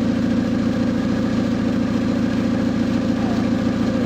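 2006 Kia's engine idling steadily, running on its own after a jump start from a battery drained by headlights left on.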